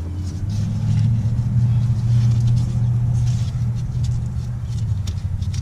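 Low engine rumble of a motor vehicle that swells about a second in and eases off near the end, with a few faint clicks over it.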